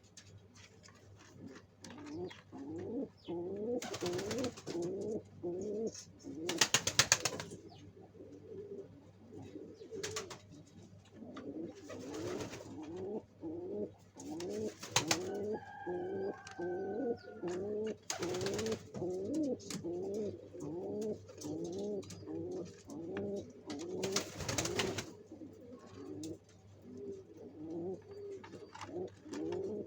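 Domestic pigeons cooing: a steady run of short, low, rising-and-falling coos, about two a second. Several brief bursts of noise break in, the loudest about seven seconds in.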